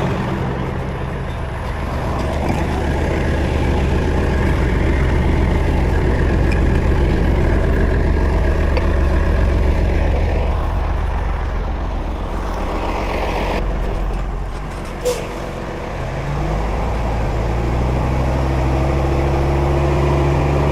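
Heavy tow truck's diesel engine running steadily, with a short sharp click about fifteen seconds in. A few seconds later the engine note rises.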